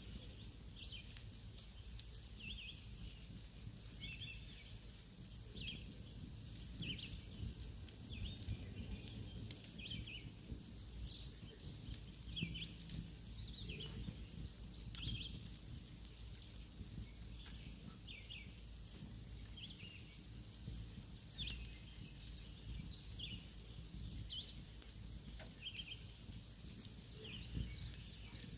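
Campfire burning with scattered sharp crackles and pops, while a bird repeats a short high chirp roughly once a second.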